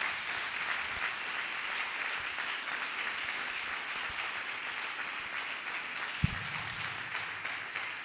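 Congregation applauding steadily, with a single low thump about six seconds in.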